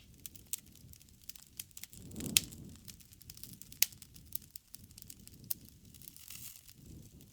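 Campfire crackling: burning wood snaps and pops in irregular sharp clicks over a soft low rumble of flames, with louder pops a little over two seconds in and near four seconds.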